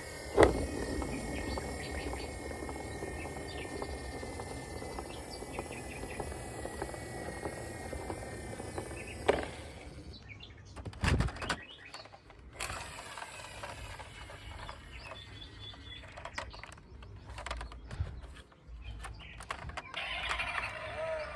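Birds chirping over a steady outdoor background hiss, with a few sharp knocks: one about half a second in, one near nine seconds and a louder one near eleven seconds.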